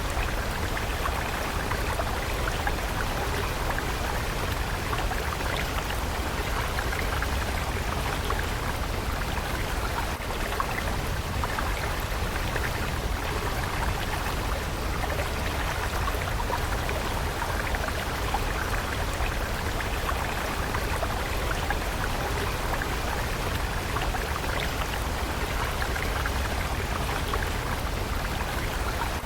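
A water stream flowing steadily.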